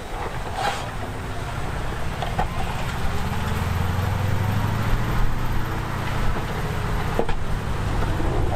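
Heavy diesel engine of earthmoving machinery running under load, its low drone growing louder about three seconds in. There is a sharp knock near the start and another near the end.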